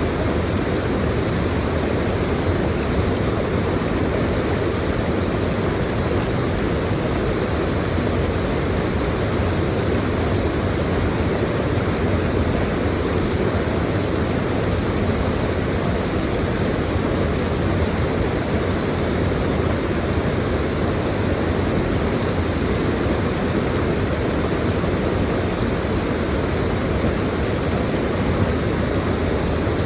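Waterfall pouring steadily, a loud, unbroken rush of falling water.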